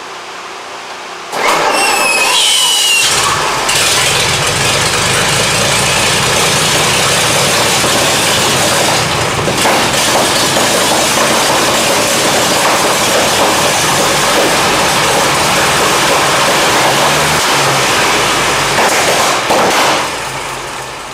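1923 Seagrave 1000 cubic inch six-cylinder engine, on its first runs in many years, is cranked and catches about a second and a half in with a rising whine. It then runs steadily, and dies away near the end.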